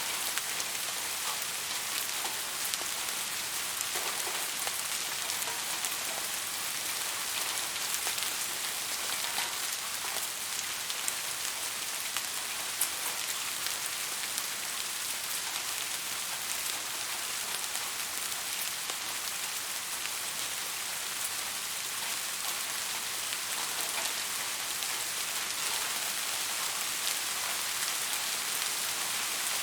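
Steady rain falling, an even hiss with scattered individual drops hitting a surface.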